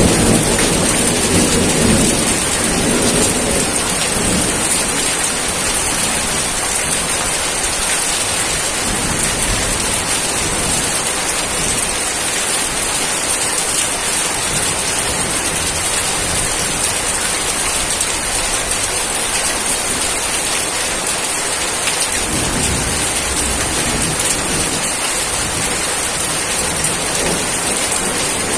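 Steady rain with a low rumble of thunder in the first few seconds and again about three-quarters of the way through.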